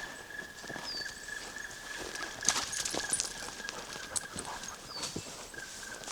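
Footsteps on a forest path, a few irregular cracks and knocks of twigs and ground underfoot, with a bird giving two short falling whistles, about a second in and again near the end, over a steady high tone.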